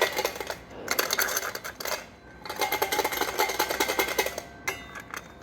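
Removed worn dual-mass flywheel being worked by hand, clattering with rapid metallic clicks in bursts. The faulty flywheel is the cause of the car's knocking.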